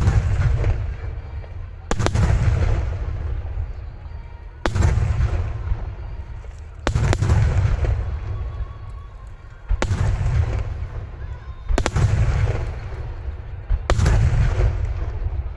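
Starmine fireworks display: aerial shells bursting with heavy booms about every two seconds, each followed by a long rolling rumble.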